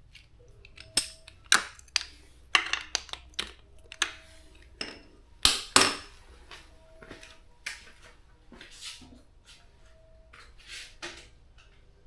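Irregular clinks and knocks of metal tools and parts being handled, loudest in the first half, then sparser.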